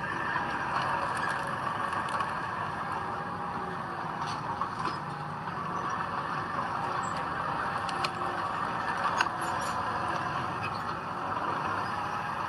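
Heavy diesel earthmoving machinery running steadily, with a few short sharp clicks and clanks scattered through.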